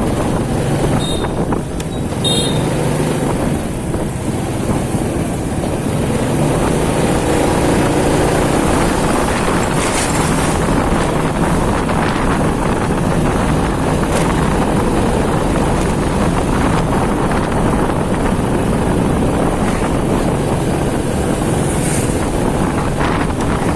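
Motorcycle running along a street, a low steady engine hum under heavy wind noise on the microphone.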